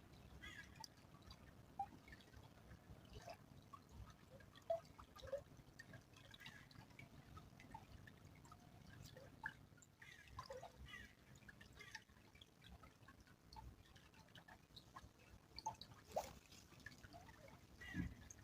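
Small stream trickling faintly, with many scattered, irregular drips and plinks of water.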